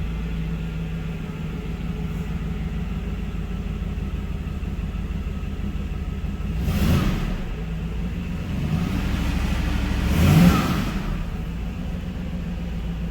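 Mercedes SL500's V8 engine idling steadily and blipped twice, about seven and ten and a half seconds in, the second rev the louder. It is running on a newly fitted aftermarket fuel pump relay, which shows the relay works.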